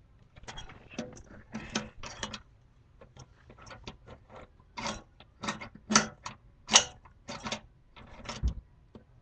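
Irregular clicks and knocks of lawnmower parts and tools being handled during carburetor work, with the loudest knocks about five to seven seconds in.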